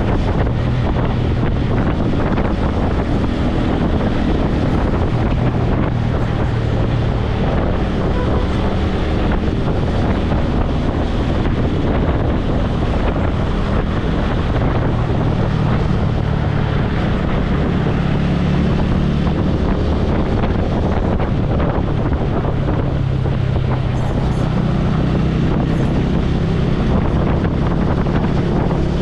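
Heavy wind buffeting a helmet-mounted microphone while riding a motorcycle at speed, with the motorcycle's engine humming underneath. The engine's pitch rises and falls a few times as the rider changes speed.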